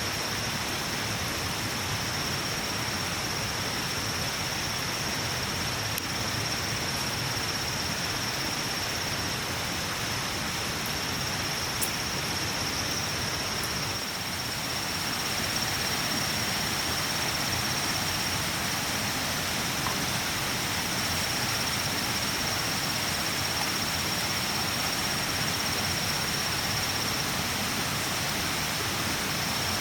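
Steady outdoor hiss with a continuous high-pitched tone held over it, and one brief click about twelve seconds in.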